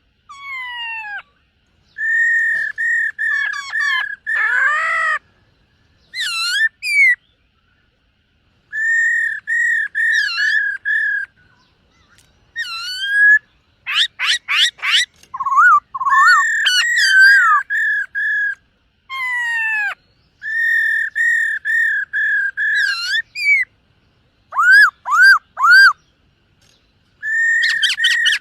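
Black-throated laughingthrush singing loud phrases of quickly repeated clear whistled notes, with sliding whistles between them and short pauses between phrases.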